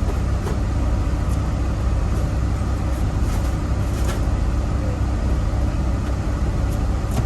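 Tractor-trailer's diesel engine running, heard from inside the cab as a steady low rumble with a few faint light ticks.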